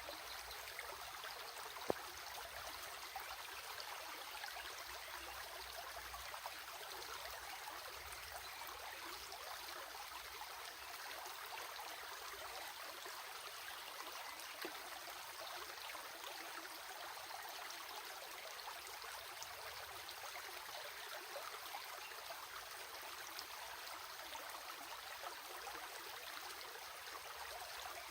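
Flowing water running steadily, a continuous rush flecked with small splashes and trickles. A single sharp click about two seconds in.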